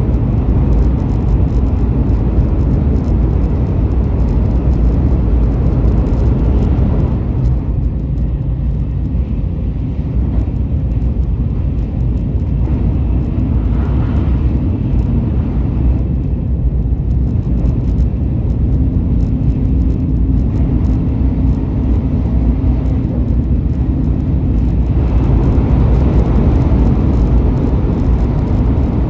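Train running, a steady low rumble with a faint hum joining for a few seconds past the middle.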